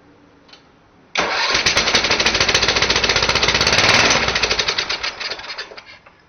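10 hp Tecumseh go-kart engine being cranked in a cold-start attempt, chugging with rapid pulses for about five seconds. The pulses fade and slow near the end and it dies away without catching: a cold engine that will only fire on starting fluid and won't keep running.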